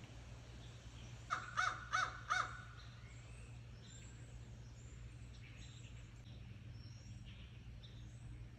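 A crow cawing four times in quick succession, a little over a second in, followed by faint chirps of small birds.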